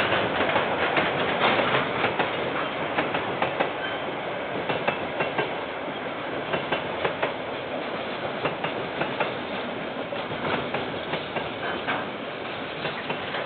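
KiwiRail train wagons rolling past, wheels clicking irregularly over the rail joints over a steady rumble that slowly fades a little, heard through a security camera's microphone.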